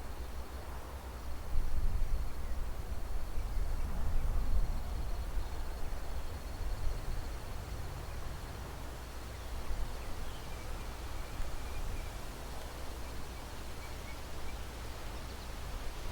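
Wind gusting across the microphone as a low rumble, strongest a couple of seconds in, then easing. Under it a steady high insect trill runs on, with a few faint bird chirps in the middle.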